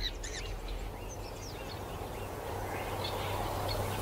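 Bush ambience: scattered short bird chirps over a steady low background hiss and hum.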